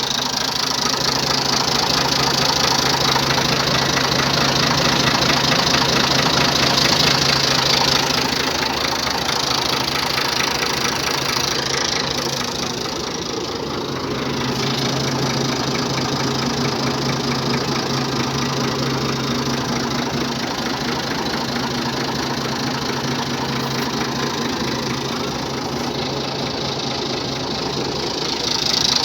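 Ford 4600 tractor's three-cylinder engine running steadily at idle with a rapid knocking clatter. It eases off slightly for a moment about halfway through.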